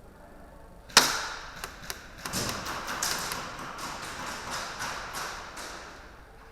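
Airsoft gunfire in close quarters: one sharp loud crack about a second in, two single clicks, then a quick run of shots and clattering that tails off near the end.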